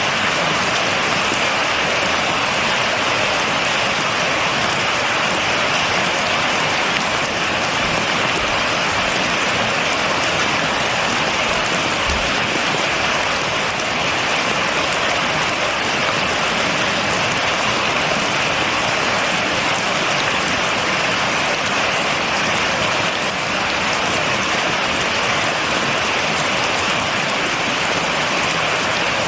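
Steady rain falling, with no thunder: an even hiss with a fine patter of drops.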